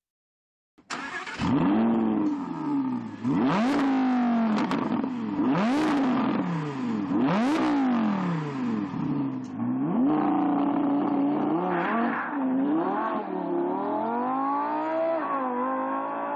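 Sports car engine revved hard several times, its pitch climbing and dropping in quick sweeps, then pulling more steadily with the pitch slowly rising toward the end. The sound starts about a second in, after a short silence.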